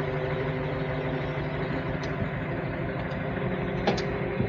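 Tow truck's engine running at a steady idle, with a couple of light clicks near the end.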